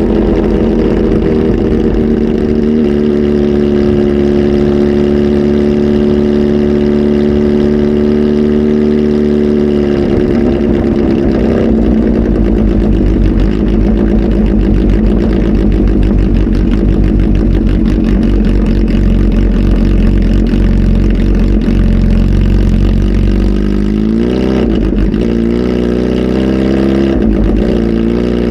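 Kawasaki Z H2 SE's supercharged inline-four, flash tuned and breathing through a full exhaust, running loud. It holds steady revs at first, turns rougher and lumpier about ten seconds in, then takes a few quick throttle blips near the end.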